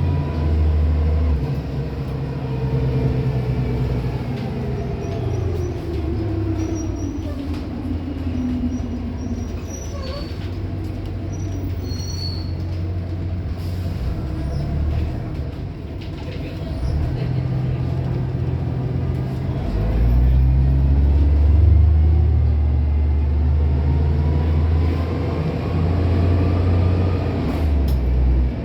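Van Hool AG280 articulated bus's diesel engine heard on board during a ride: the engine note falls away as the bus slows several seconds in, then the engine pulls harder and louder about twenty seconds in, its pitch rising again near the end.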